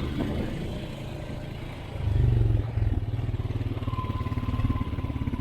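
Off-road vehicle's engine running over rough ground, growing louder about two seconds in as it is given throttle, then holding at a rapid low throb.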